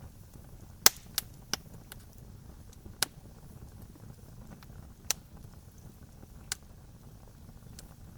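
Campfire crackling: irregular sharp pops from burning wood, the loudest about a second in and a handful more spread across the next six seconds, over a low steady rumble.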